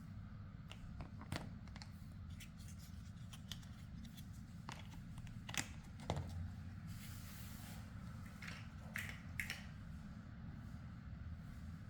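Plastic building blocks being handled and pressed together: scattered small clicks and taps, with a short rustle about seven seconds in, over a low steady hum.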